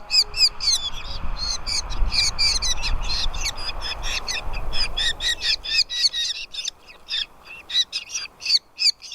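Nestling birds in the nest calling for food: a continuous stream of short, high-pitched chirps, several a second. For the first several seconds a low rumbling noise runs under the calls.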